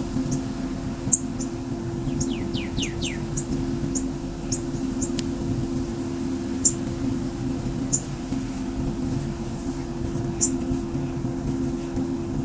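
Small birds chirping: short, high chirps scattered throughout, with a quick run of four falling notes about two seconds in. A steady low hum runs underneath.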